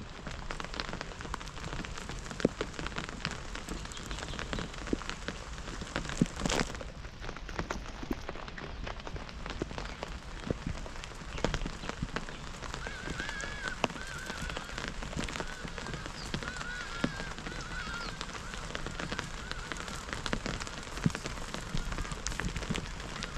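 Rain falling, with many separate drops ticking sharply close by. Partway through, a run of short, high, arched calls from an animal sounds several times over the rain.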